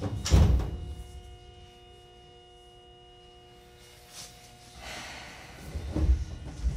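Seibu 2000 series electric train heard from inside the car at a station stop: the doors shut with a heavy thud, then a steady hum of several tones while the car stands. Near the end comes a rush of noise and a few knocks.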